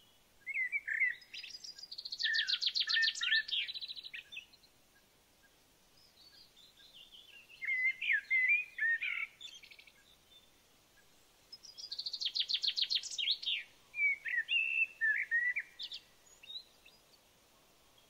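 A songbird singing three phrases a few seconds apart. Each phrase is a rapid high trill mixed with warbling notes.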